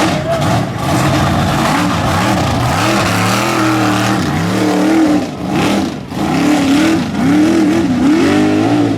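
Mega truck engine revving hard, its pitch climbing and falling over and over, with a brief drop about six seconds in before it climbs again.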